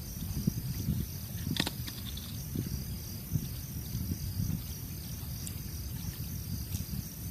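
A chorus of insects chirring in a steady, even pulse over a low rumble, with one sharp click about a second and a half in.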